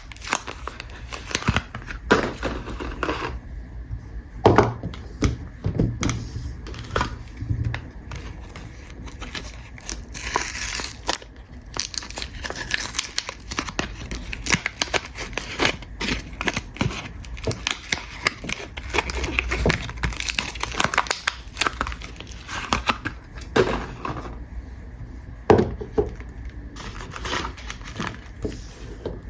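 Soap packaging being crinkled and torn open by hand: a dense run of irregular crackles and rustles, with a few louder sharp clicks.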